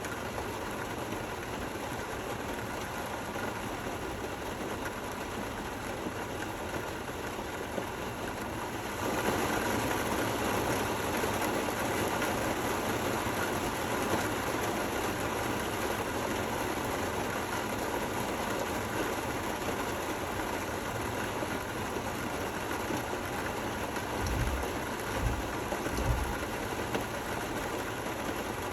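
Steady rainfall, an even hiss that grows louder about nine seconds in, with a few low thuds near the end.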